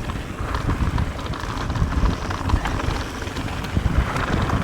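Wind buffeting an action camera's microphone during a mountain bike ride, an uneven low rumble, with scattered small clicks and rattles from the bike rolling over the trail.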